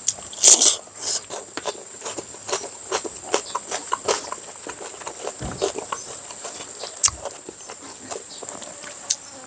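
Close-up mouth sounds of someone eating fatty pork: wet chewing and lip smacks, several a second, loudest about half a second in.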